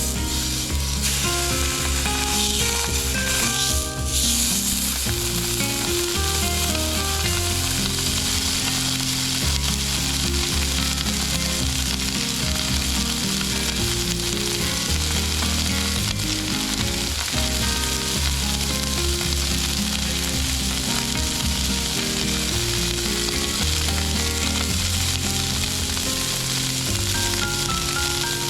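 Steak frying in a hot pan, a steady sizzle.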